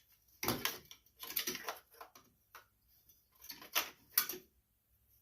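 Irregular clicks and light knocks of small carburetor linkage parts being handled as the plastic linkage piece is worked onto the governor rod. The clicks come in two clusters, one about a second in and another near the four-second mark.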